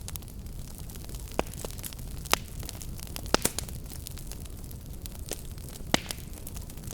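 Wood fire burning with a steady low rumble and scattered sharp crackles and pops, the loudest pops about two, three and a half, and six seconds in.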